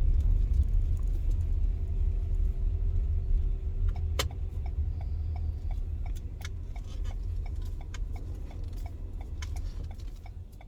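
Car cabin with the engine and road rumbling low. About four seconds in, a sharp click marks the turn-signal stalk being pushed, and the turn signal starts ticking at an even pace, roughly two or three ticks a second, as the car prepares to turn around.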